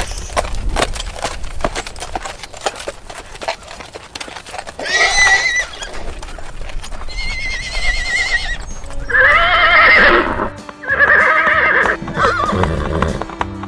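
Horse hooves clip-clopping for the first few seconds, then horses neighing several times, each whinny a high, wavering call. Steady music tones sound under the last couple of seconds.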